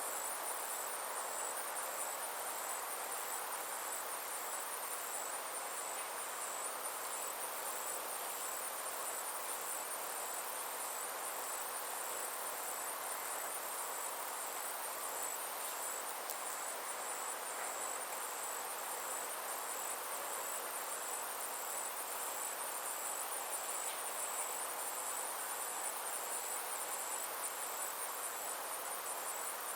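A steady chorus of summer insects shrilling in a high, finely pulsing band, over a soft even hiss of outdoor ambience.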